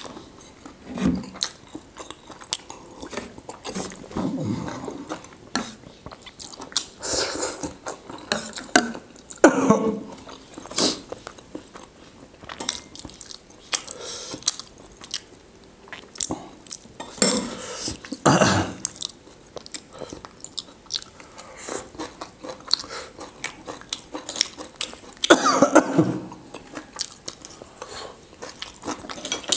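Close-miked chewing and biting of food, with wet mouth noises. Small clicks run throughout, and several louder bursts come at intervals.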